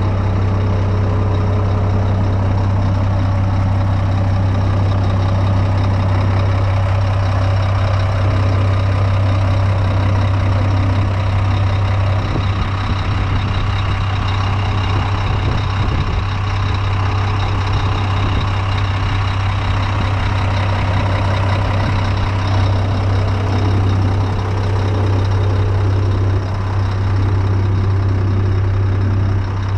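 Scania G420 truck's inline-six diesel engine idling steadily, with a strong low hum.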